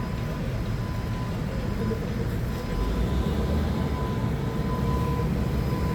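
Forklift engine running steadily with a low rumble and a faint steady whine, getting a little louder about three seconds in.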